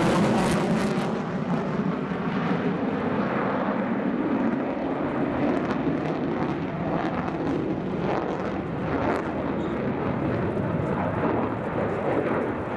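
Jet noise from modernised F-15J fighters flying overhead, their twin turbofans making a loud, steady rush of noise; the high hiss falls away about a second in as the aircraft pulls away, leaving a broad lower rumble.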